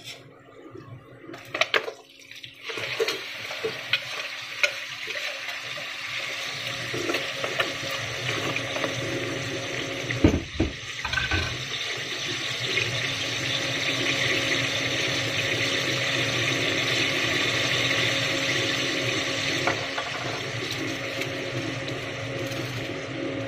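Crablets frying with shallots in a stainless steel pot, a steady sizzle that builds after a few clatters near the start and peaks past the middle. There is a low thump near the middle and a faint steady hum underneath.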